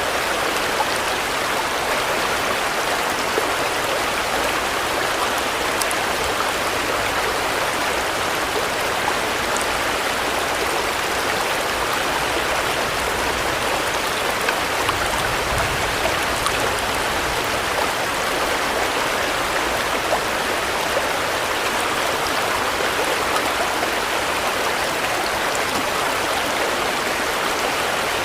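Steady rain falling: an even, unbroken hiss of drops that holds constant throughout.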